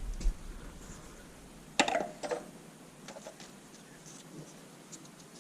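A few light clicks and knocks of handling, the sharpest about two seconds in, followed by faint scattered ticks.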